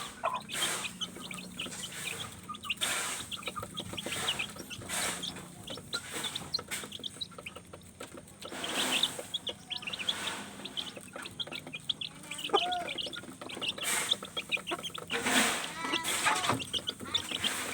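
Chicks peeping continually in short high chirps while they feed, with some lower clucking and repeated short taps and rustles.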